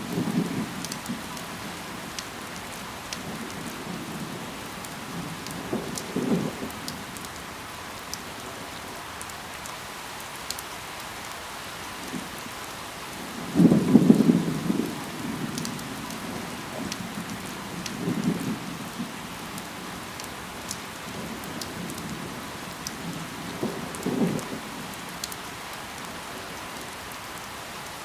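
Steady rain falling, with scattered sharp raindrop ticks. About every six seconds there is a short low rumble or thud lasting about a second, the loudest one about halfway through.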